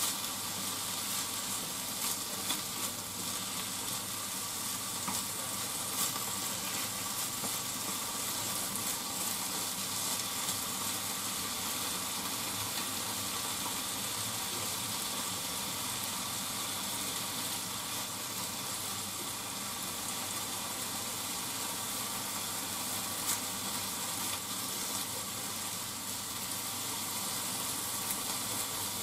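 Cabbage and pork sizzling steadily as they stir-fry in a frying pan, with a few light clicks of chopsticks against the pan as the food is turned.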